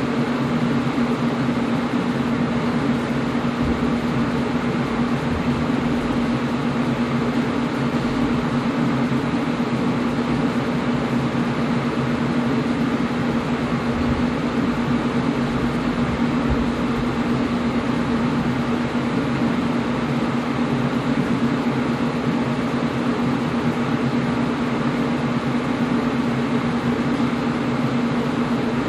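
Air conditioner running steadily: an even rushing of air over a constant low hum.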